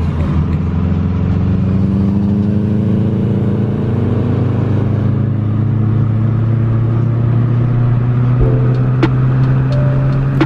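Muffler-deleted Subaru Impreza 2.5 RS flat-four engine droning loudly, its pitch climbing slowly and steadily as under gentle acceleration. A few sharp clicks come near the end.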